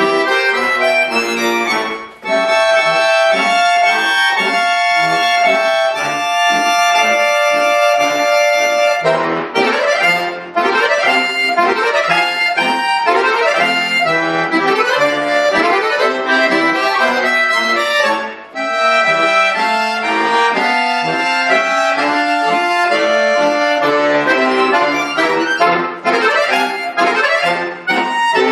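Bayan (Russian button accordion) playing a piece: held chords over a moving bass line, with short breaks between phrases about two seconds in and again about two-thirds of the way through.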